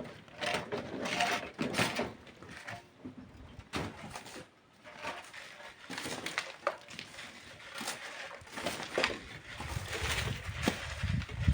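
Irregular knocks and scrapes of manual work on sand and stone, with a brief lull near the middle.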